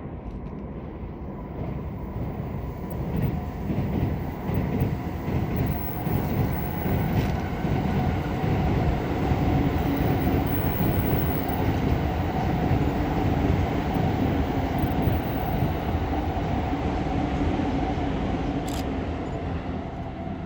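A train passing at close range, its wheels rumbling on the rails. The sound builds over the first few seconds, holds loudest through the middle, and eases off near the end.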